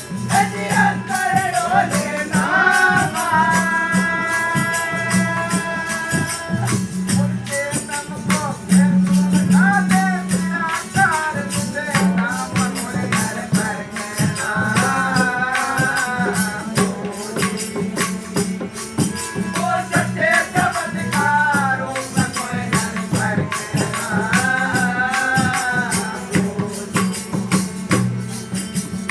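Devotional satsang music: fast, dense jingling hand percussion over a steady low drum beat, with a melody of held and wavering notes above.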